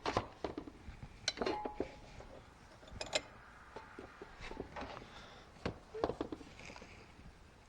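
Metal hand tools and parts clinking and knocking now and then, in short separate clicks, one of them ringing briefly just over a second in.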